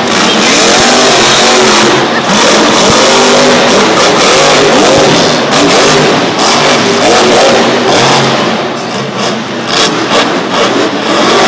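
Monster truck's engine revving hard, over and over, its pitch climbing and dropping with each blip of the throttle. It eases off and turns choppier about eight seconds in, then picks up again near the end.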